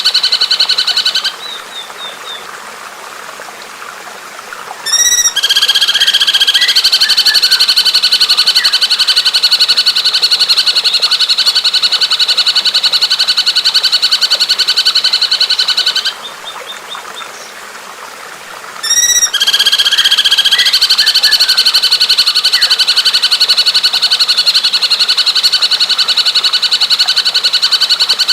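Recorded songbird calls played as a repeating loop: a long, fast, high trill held for about ten seconds, a short pause with faint chirps, a quick run of rising notes, then the same long trill again.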